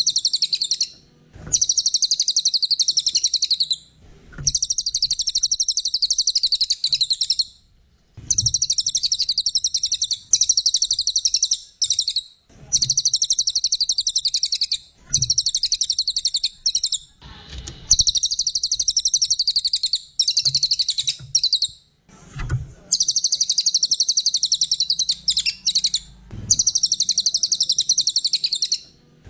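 Cililin songbird singing a rapid, high-pitched chattering trill in bursts of two to four seconds, broken by short pauses and repeated over and over.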